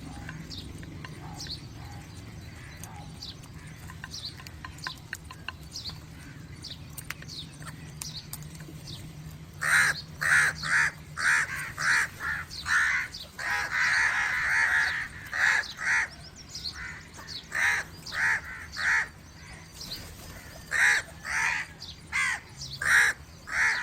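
Crows cawing loudly in a quick series of short calls, about two a second, starting about ten seconds in, with one longer drawn-out call in the middle. Before the cawing, only faint high chirping.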